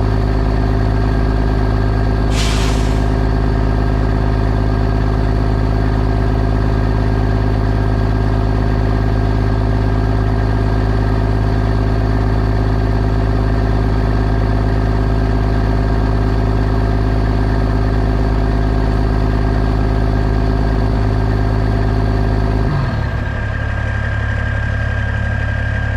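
Heavy diesel engine running steadily, with a short hiss of released air about two seconds in. About 23 seconds in, the engine note changes abruptly and drops lower.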